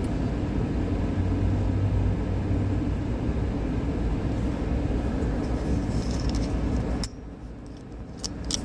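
Vehicle engine and road noise, a steady low rumble, that cuts to a much quieter background about seven seconds in, with a few sharp clicks near the end.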